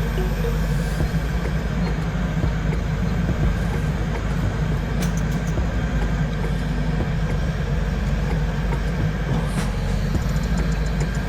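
Heavy machine engine running steadily with a deep low rumble.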